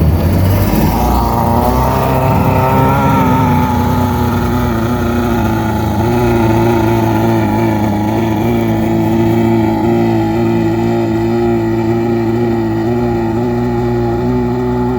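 Small homemade jet boat's engine running on the water, its pitch climbing over the first two seconds or so and then holding steady.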